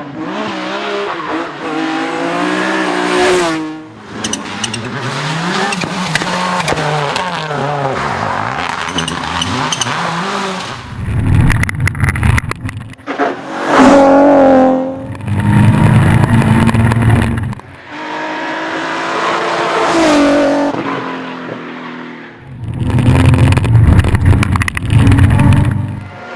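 Rally cars at full throttle on a stage, engines revving up and dropping back through gear changes, with several very loud close passes.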